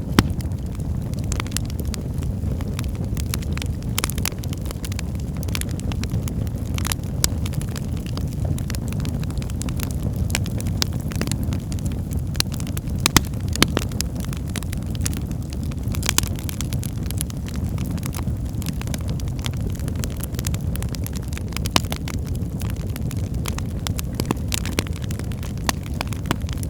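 Wood fire burning in a fireplace: a steady low rumble of flames with frequent irregular crackles and pops, a few sharper snaps standing out.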